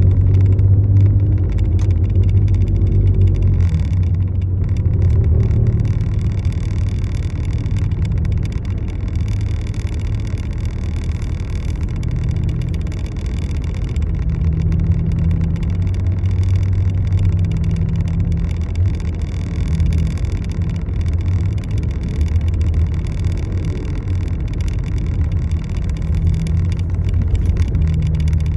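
Steady low rumble of a vehicle in motion, with no sudden events.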